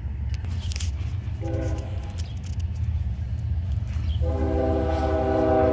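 Norfolk Southern locomotive horn sounding a short blast and then, about four seconds in, a long held blast, over a steady low rumble.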